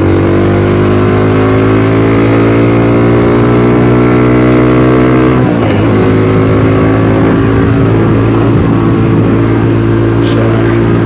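Venom X22R (DF250RTS) motorcycle engine under way, its pitch climbing steadily as it pulls through a gear for about five seconds, then a gear change, after which it runs steadily at lower revs.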